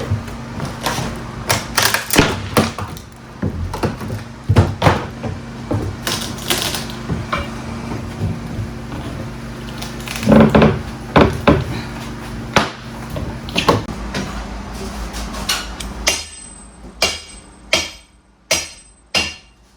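Steel pry bars levering up wooden floorboards: a run of irregular metal-on-wood knocks and cracks as the boards are worked loose, thinning to a few separate sharp knocks near the end.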